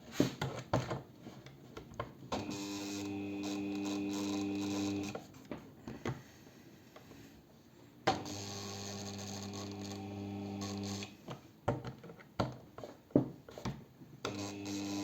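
Cordless drill driving screws in slow, controlled runs: three steady runs of about three seconds each, with handling clicks between, tightening the screws that hold a motor that was still loose in its mount.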